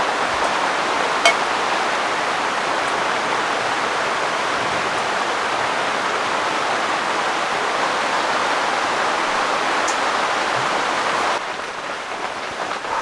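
Heavy rain falling steadily, an even hiss with one sharp tap a little over a second in. Near the end the rain sound turns softer.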